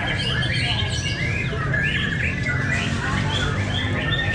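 Many songbirds singing at once, white-rumped shamas (murai batu) among them, in fast overlapping chirps and short whistled phrases over a low background rumble.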